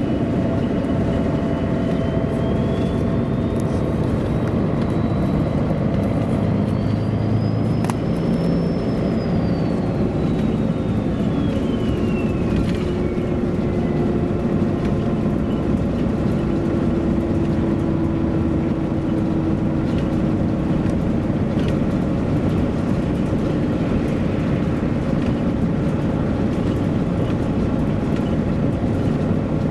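MAN A23 articulated city bus driving, heard from inside: steady diesel engine and road rumble. A thin high whine climbs and then falls away over about ten seconds in the first half.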